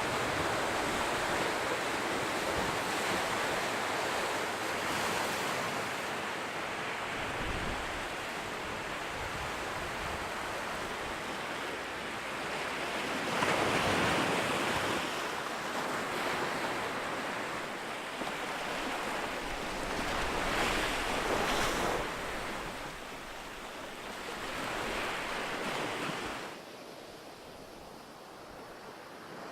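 Ocean surf washing onto a beach: a continuous rush of water that swells as waves break, loudest about halfway through, and fades quieter near the end.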